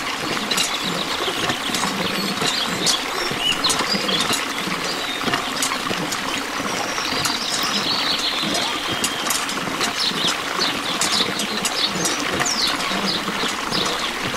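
A thin stream of water pouring from a miniature hand pump's spout and splashing steadily into a small pool of water, with many small drips and splashes.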